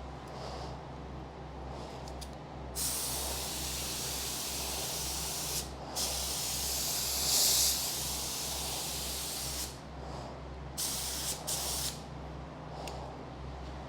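Compressed-air paint spray gun spraying epoxy primer. It gives one long hissing pass of about seven seconds, with a brief break partway through, followed by three short trigger pulls.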